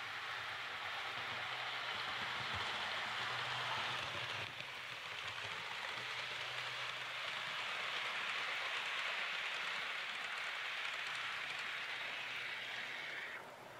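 Steady rain, an even hiss with a faint low hum beneath it, cutting off suddenly just before the end.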